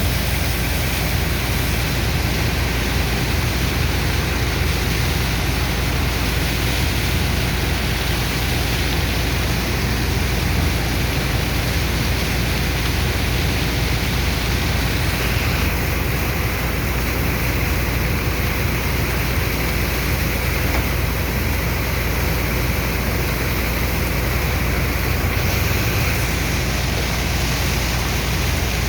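Dredger's water pump discharging sand-and-water slurry: a steady rushing like a waterfall over a low, even engine drone.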